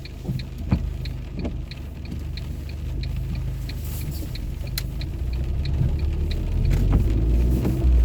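Abarth Punto Evo engine running with a steady low rumble that grows louder over the last couple of seconds. A light, regular ticking, about three ticks a second, runs over it.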